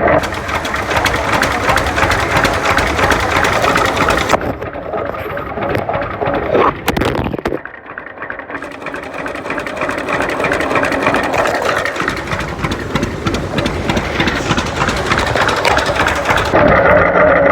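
Old engine running close by with a rapid clattering beat. It drops away briefly about halfway through, then comes back.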